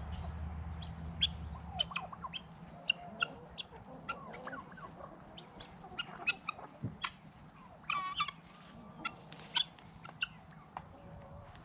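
Domestic chickens clucking and calling, with many short, sharp calls scattered throughout and a longer pitched call about eight seconds in.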